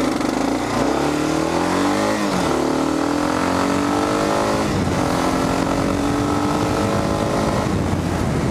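Kawasaki KLR 650's single-cylinder engine under full-throttle acceleration. Its pitch climbs, drops at upshifts about two seconds and about five seconds in, then climbs slowly and levels off near the bike's top speed.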